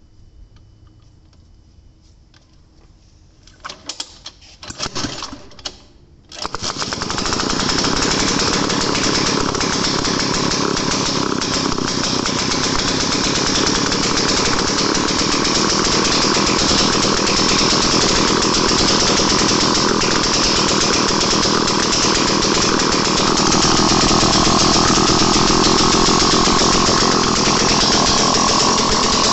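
Daihatsu Midget DKA's single-cylinder two-stroke engine, after a few short sputtering attempts, catches about six seconds in and keeps running loudly and steadily.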